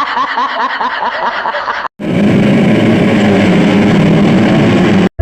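Rapid high-pitched giggling, repeating about three times a second, cut off after about two seconds. It is followed by about three seconds of motocross dirt bike engines running loud and steady.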